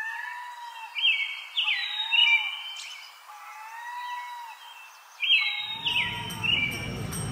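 Birds calling: repeated arched whistles and short sweeping chirps. About five and a half seconds in, a low steady street-traffic rumble comes in underneath.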